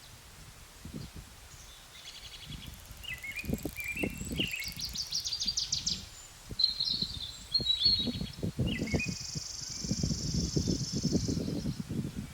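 Several songbirds singing and calling, a mix of short chirps, quick trills and, about two thirds through, a long buzzy trill, over irregular low rumbling noise.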